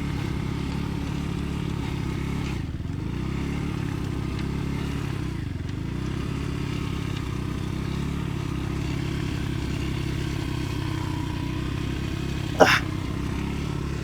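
Dirt bike engine running at low, fairly steady revs, its pitch dipping and rising slightly about three to five seconds in. A brief sharp sound cuts through near the end.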